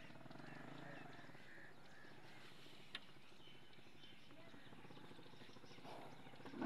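Faint outdoor ambience with a bird calling repeatedly in short arched notes for the first couple of seconds. About three seconds in comes a single sharp knock, the snake charmer's gourd pipe set down on hard ground.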